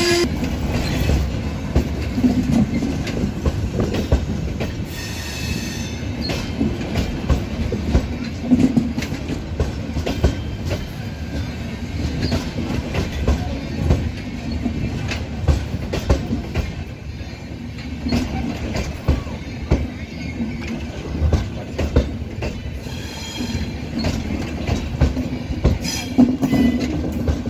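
Indian Railways passenger coaches rolling past close by, with a steady rumble and dense clatter of wheels over the rail joints. Brief metallic wheel squeals rise out of it about five seconds in and again near the end.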